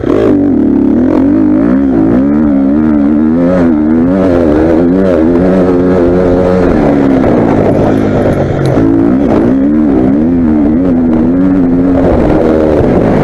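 Motocross bike engine running loud under hard throttle, its pitch rising and falling again and again as the rider works the throttle. About seven seconds in it drops briefly as the throttle is rolled off, then picks up again.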